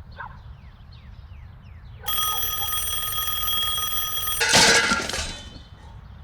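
Alarm clock bell ringing for about two and a half seconds, cut off by a loud crash. A steady low hum runs underneath.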